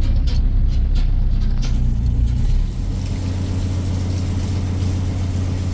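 A car engine running with a loud low rumble and a few knocks. About two and a half seconds in, it drops to a quieter, steadier hum.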